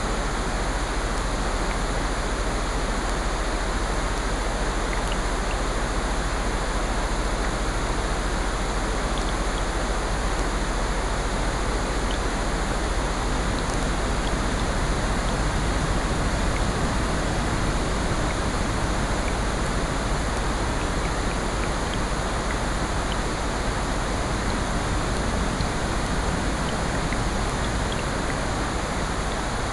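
Steady rain and ocean surf layered into one even wash of water noise, with a few faint scattered ticks.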